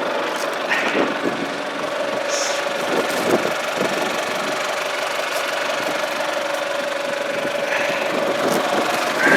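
1997 John Deere 5500 tractor's diesel engine running steadily, with a few brief higher-pitched chirps over it.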